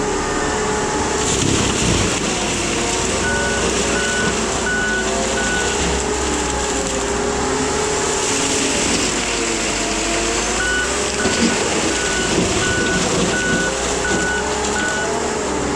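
Case skid steer with a Shearex mulching head running steadily, its engine note dipping in pitch now and then under load. Its reversing alarm beeps in two runs, a few seconds in and again in the second half, about three beeps every two seconds.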